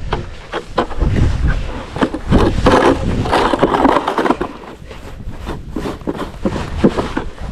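Irregular scraping and knocking, a run of uneven strokes that grows denser a few seconds in.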